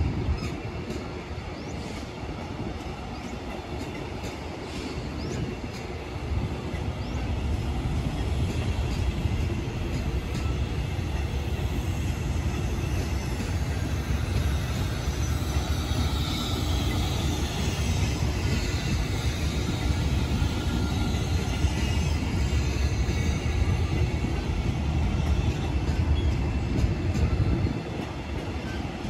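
Passenger coaches of a train rolling slowly past on steel wheels: a steady rumble with clicking over rail joints and a faint wheel squeal around the middle. The sound grows louder, then drops off near the end.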